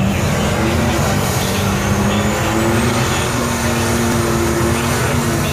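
Turbocharged Ford 302 V8 with a stock short block and a single turbo, running hard and loud at a fairly steady pitch.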